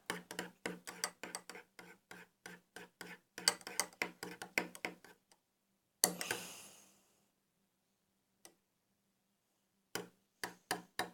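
Spoon clicking rapidly against its container while stirring a soap, shampoo and salt slime mixture, about four clicks a second. About six seconds in comes a short scraping rush that fades, then a pause and a few more clicks near the end.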